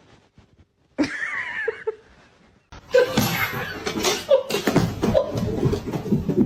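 A person laughing loudly and unevenly for several seconds, after a brief wavering high sound about a second in.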